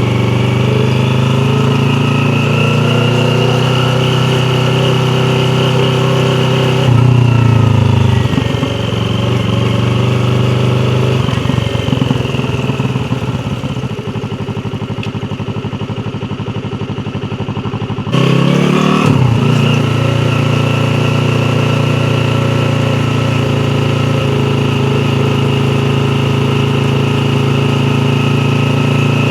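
Yamaha YZF-R3's 321 cc parallel-twin engine running steadily while riding. About seven seconds in it surges briefly, then the revs fall away to a quieter, low-rev stretch. About eighteen seconds in the throttle opens sharply and it settles back into steady running.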